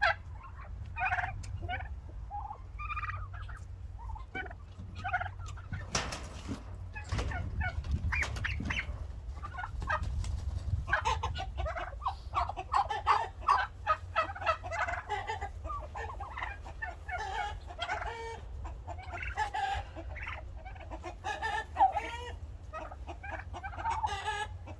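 A flock of turkey hens calling: many short, overlapping clucks and yelps, growing busier about halfway through, the birds stirred up by being caught and banded. A single sharp knock about six seconds in.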